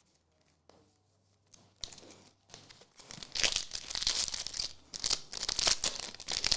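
Foil trading-card pack wrapper being torn open and crinkled, with a few faint handling clicks first and then loud crackling tearing through the second half.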